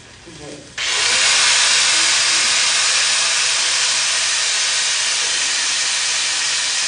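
A welding arc strikes suddenly about a second in, then burns with a loud, steady hiss and crackle as a weld bead is run.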